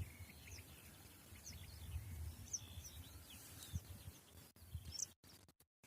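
Wild birds chirping and calling, many short high notes and quick slurred whistles, over a low rumble. In the last second or so the sound cuts out briefly several times.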